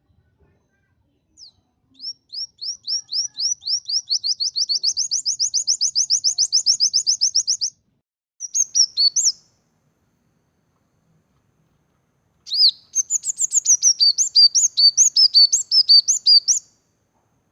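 Small songbird singing high, sharp notes. First comes a fast trill, about seven notes a second, lasting some six seconds. A short phrase follows, then after a pause of about three seconds a quicker, more varied twittering phrase that ends near the close.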